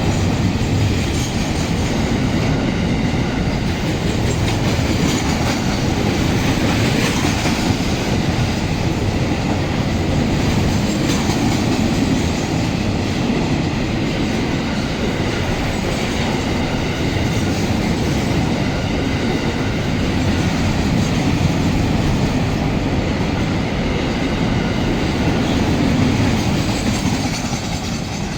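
A freight train of container wagons rolling past close by: a steady rumble of steel wheels on the rails with clickety-clack over the rail joints, easing off near the end.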